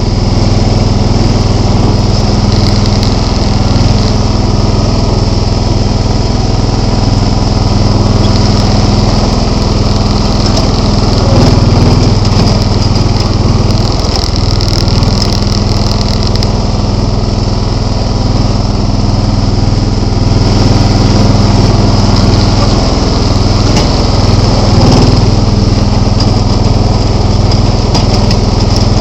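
John Deere 265 lawn tractor engine running steadily under way, its pitch and level swelling briefly twice.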